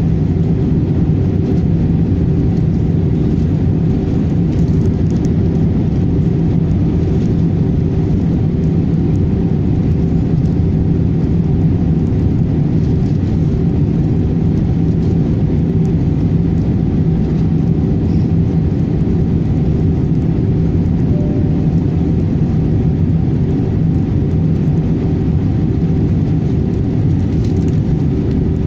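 Airbus A318 airliner in flight: a steady, loud drone of jet engines and rushing air, with a constant low hum of a few tones and no change in pitch or level.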